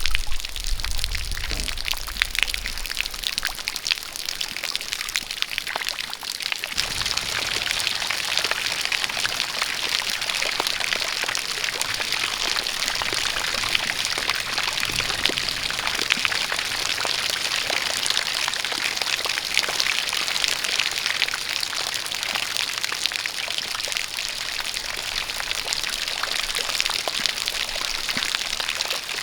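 Steady rain falling, with a jet of water pouring, as one continuous hiss. A low rumble sounds in the first couple of seconds, and the hiss grows fuller about six seconds in.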